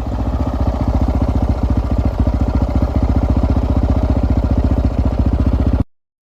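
Honda XR650R single-cylinder four-stroke dirt bike engine running steadily under way, its firing pulses loud and even; the sound cuts off suddenly near the end.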